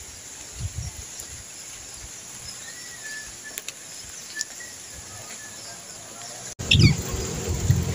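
Quiet outdoor ambience with a few faint, short bird calls. About two-thirds of the way through it cuts abruptly to a louder, low rumbling noise with a few high chirps.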